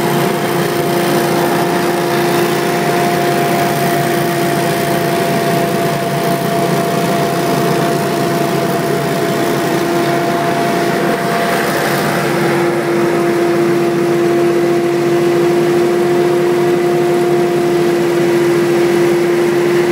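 Hurricane Blo Vac X3 stand-on leaf blower running steadily, engine and fan at working speed. About twelve seconds in, its tone shifts slightly and the high hiss eases.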